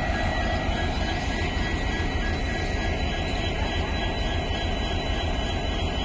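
Passenger train pulling out of the station, its coaches rolling past with a steady rumble and a faint thin high whine over it.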